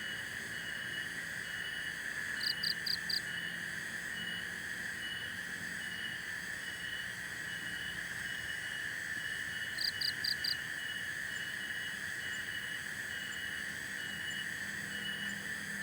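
Night chorus of crickets and other insects: a steady high trill with a regular chirp repeating every fraction of a second. Twice, a quick call of four short high notes cuts through.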